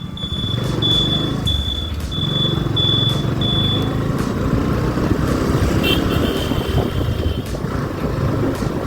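Motorcycle engine running while riding, with wind noise on the microphone. A short high beep repeats about twice a second for the first four seconds, and a single high tone sounds for about a second and a half near the end.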